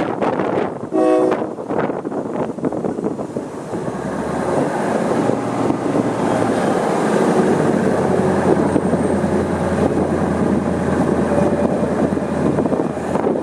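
Diesel passenger train running, with a short horn blast about a second in, then a low engine rumble that builds from about four seconds in and holds steady under the rolling noise.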